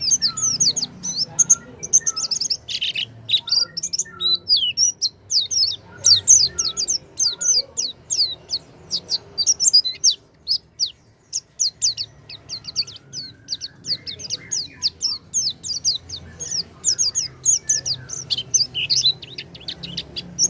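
White-eye (pleci) song, the kind played as a lure to set a silent caged pleci singing: a fast, unbroken run of high, twittering chirps and trills, easing off briefly about ten seconds in before picking up again.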